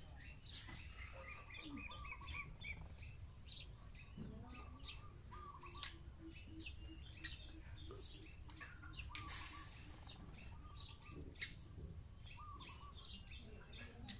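Birds calling: a short wavering call repeats every second or two among higher chirps, with a low, evenly spaced run of notes in the middle. A few sharp single taps sound among the calls, the loudest about eleven seconds in.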